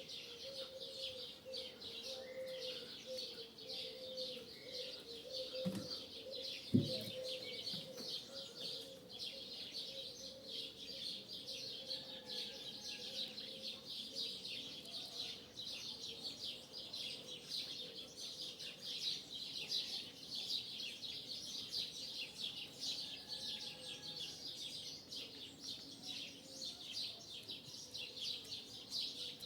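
A flock of starlings chattering and twittering without pause in a dense dawn chorus. A faint steady hum runs under it through the first half, and there are two short knocks about six and seven seconds in.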